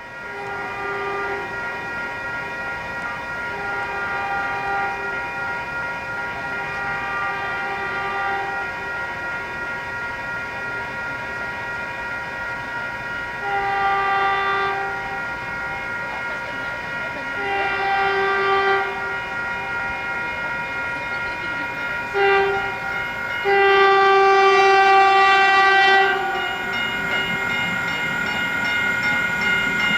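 Diesel locomotive horn sounding the grade-crossing signal: two long blasts, a short one and a final long one, louder than the fainter blasts heard earlier. A low train rumble builds near the end.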